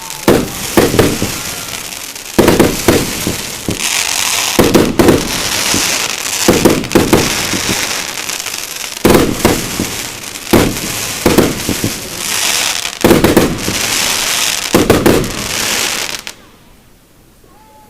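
Fireworks bursting: a rapid run of loud bangs with crackling between them, stopping abruptly near the end.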